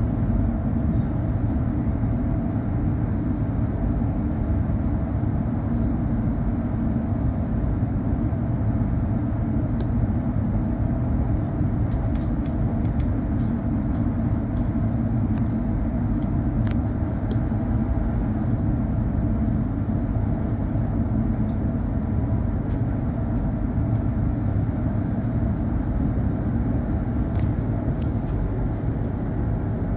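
Type 75 (Stadler FLIRT) electric multiple unit heard from inside the passenger cabin while running between stations: a steady low rumble from the wheels and running gear, with a faint even hum above it.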